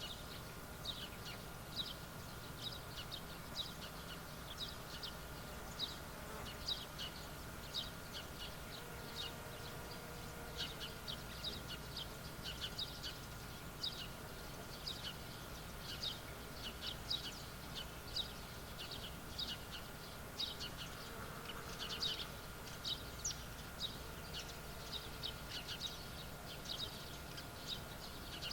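Outdoor field ambience: a steady stream of short, high chirps, several a second and irregular, over a faint steady high hum and a low rumble.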